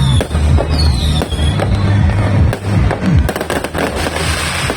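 A multi-shot fireworks cake firing in quick succession: sharp bangs and crackling, a whistling shell gliding down in pitch about a second in, and a dense crackling hiss of bursting stars from about three seconds in, over loud background music with a heavy bass beat.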